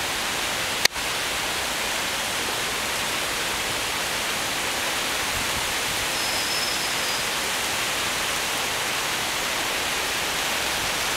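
Steady hiss of heavy typhoon rain, with a single sharp click about a second in.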